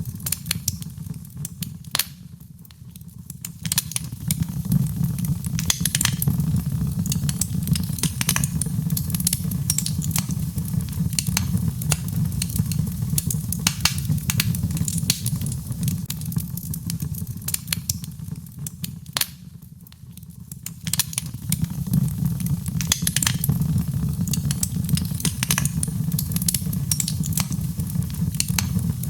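Birchwood fire burning in a fireplace: a steady low rumble of flames with frequent sharp crackles and pops from the burning wood. It quietens briefly twice, once early on and once about two-thirds through.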